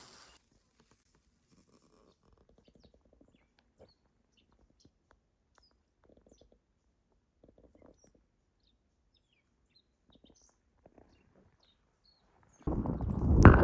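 Near silence with faint, scattered high bird chirps. About a second before the end a loud, rough rushing noise cuts in suddenly.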